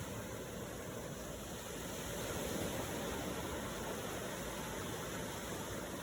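Ocean waves: a steady wash of surf, swelling slightly a couple of seconds in.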